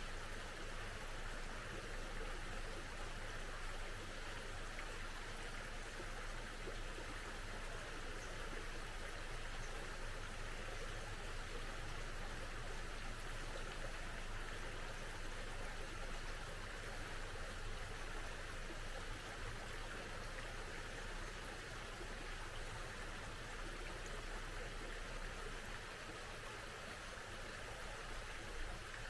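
Steady rushing and babbling of a small brook, even and unbroken.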